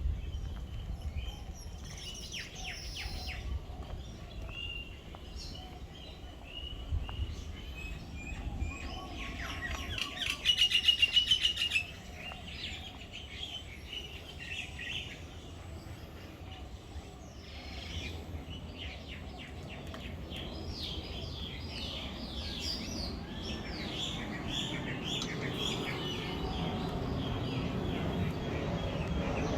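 Many birds chirping and calling at once, with a loud run of fast repeated notes for about two seconds near the middle.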